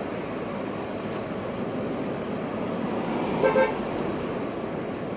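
Steady street traffic noise, with a car horn giving two short toots about three and a half seconds in.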